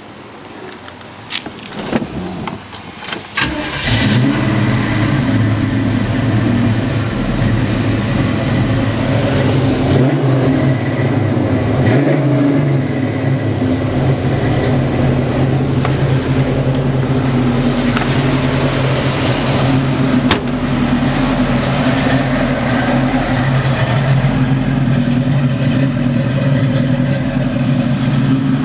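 1980 Chevrolet Camaro Z28's V8 cranked over by the starter for about three seconds, then catching and settling into a steady idle.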